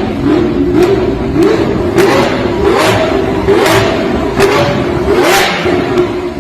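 Car engine revved hard over and over, its pitch climbing and dropping again, with sharp exhaust cracks about once a second.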